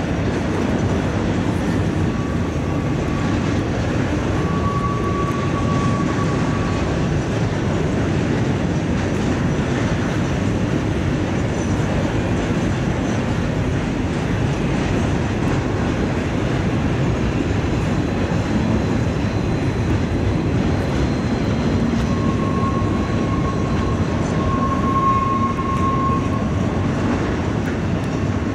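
BNSF loaded garbage unit train's container cars rolling steadily across a steel truss bascule bridge: a continuous rumble of wheels on rail. A faint, thin wheel squeal comes in a couple of seconds in and again near the end.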